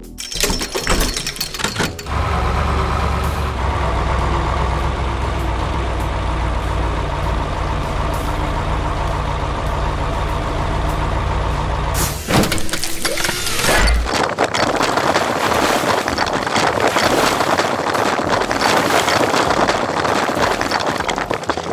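Heavy-vehicle engine sound running steadily, then a sudden hiss about twelve seconds in, like an air brake, followed by a louder, rough, noisy rumble.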